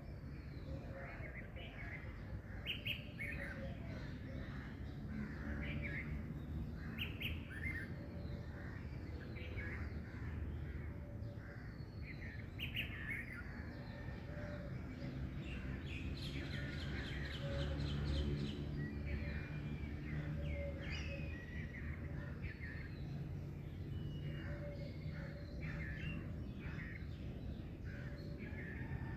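Several wild birds chirping and calling together, many short overlapping calls with a quick trill about two thirds of the way through, over a steady low background hum.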